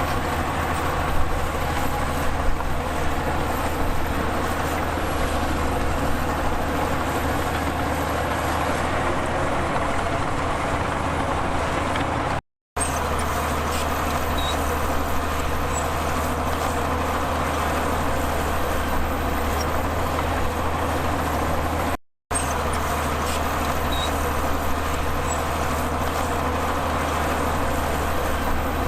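Heavy diesel earthmoving machinery running steadily with a deep, even engine drone. The sound cuts out briefly twice.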